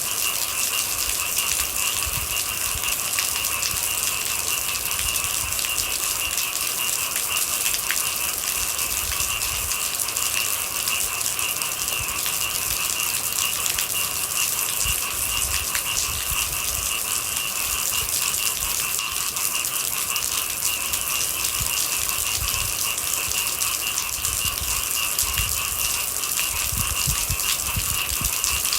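Steady rainfall with a continuous high, trilling chorus of night animals over it, unchanging throughout.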